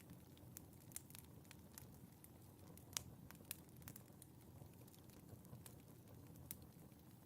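Wood fire in a fireplace crackling quietly: irregular sharp pops and snaps over a low rumble of burning, the loudest pop about three seconds in.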